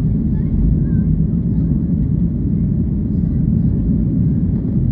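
Boeing 737 MAX's CFM LEAP-1B turbofans during the departure climb, heard as a steady low rumble.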